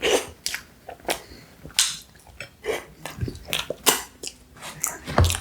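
Close-miked mouth sounds of someone chewing a mouthful of soft pie: a run of irregular wet smacks and clicks, with a low thump about three seconds in and another near the end.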